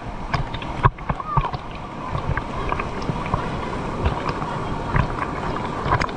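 Waterfall water pouring in a steady rush, with scattered splashes and knocks through it.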